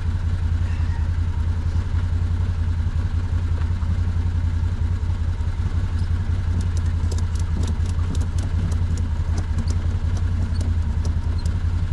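An engine-driven machine running steadily with an even low hum. From about six seconds in there is a run of light, sharp clicks and ticks.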